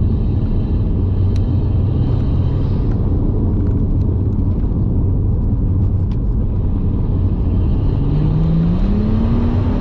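BMW 135i's N55 turbocharged straight-six and tyre noise heard inside the cabin, running steadily on the move. About eight seconds in, the engine note rises as the car speeds up.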